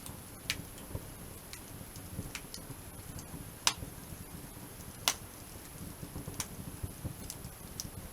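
Wood fire burning: soft, irregular crackling with a few loud, sharp pops from the burning wood, scattered several seconds apart.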